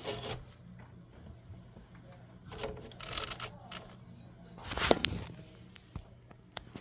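Light handling noises: scattered small clicks and rustling, with a louder clatter about five seconds in, over a faint steady hum.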